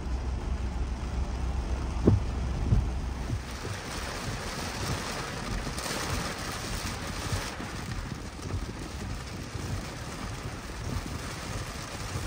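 Car driving in heavy rain: a steady hiss of rain and tyres on the wet road, with a low rumble that drops away about three and a half seconds in and a single knock about two seconds in.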